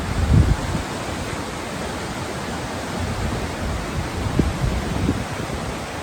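Waterfall's steady rush of falling water, with low wind buffets on the microphone, the strongest about half a second in.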